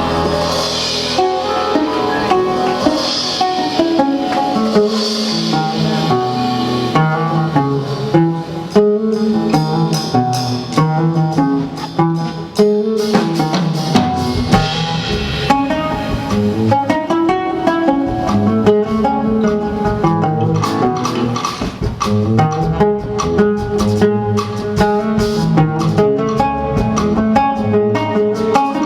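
A band playing jazz, with guitar and drum kit; many quick notes move over a steady beat.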